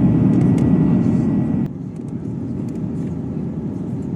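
Steady rumble of an Airbus A350-900 airliner's engines and airflow heard from inside the cabin, dropping abruptly to a quieter, still steady level just under two seconds in.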